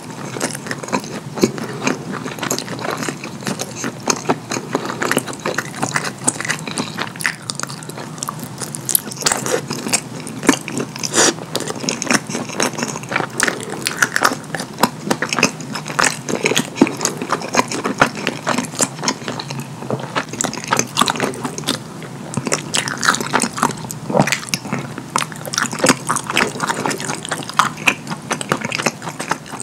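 Close-miked wet chewing of a chili cheese dog in cheese sauce: a dense, unbroken run of sticky mouth clicks and smacks.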